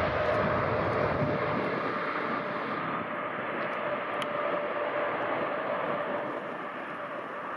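Jet airliner's engines passing and moving away: a broad rushing noise with a steady whine, fading gradually.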